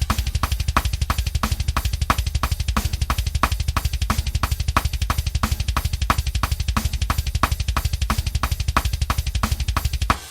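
Drum kit playing a fast thrash-metal beat: an unbroken roll of double bass drum with snare hits about three to four times a second and cymbals over it. It stops abruptly near the end.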